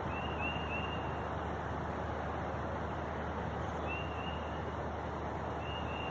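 Steady rushing of strong wind in a gusty windstorm, with short high chirps in three small clusters.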